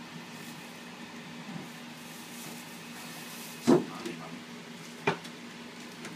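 Two sharp knocks about a second and a half apart, things in a refrigerator being knocked about, over a steady low hum.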